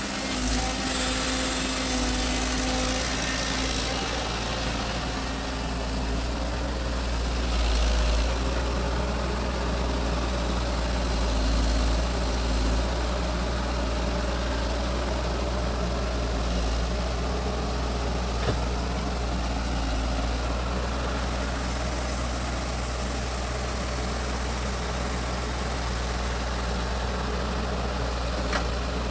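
Excavator's diesel engine running steadily with a deep rumble, rising a little in load twice, with one or two faint knocks.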